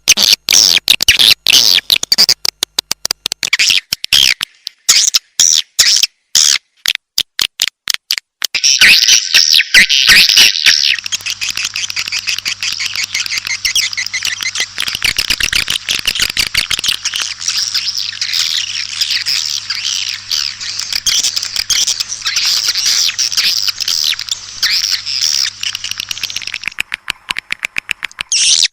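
Recorded swiftlet calls played as a swiftlet-house lure: rapid high chirps and clicks, choppy for the first eight seconds, then a dense, continuous twittering chorus from about nine seconds in until near the end, with a faint low hum under it.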